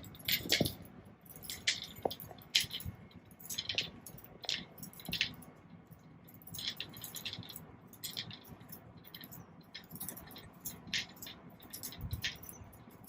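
Stiff bamboo brush bristles on a cat-teaser wand rustling and scratching in short, irregular strokes, with a few light knocks.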